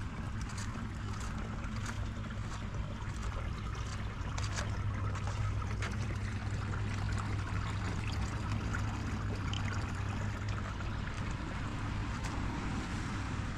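Steady rain falling, with scattered sharp ticks of drops hitting an umbrella, over a steady low rumble.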